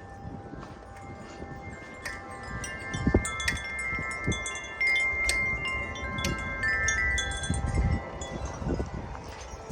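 Metal tube wind chime ringing in gusty wind. Its tubes are struck irregularly and the notes overlap and ring on, getting busier about two seconds in. Low rumbles of wind sound underneath.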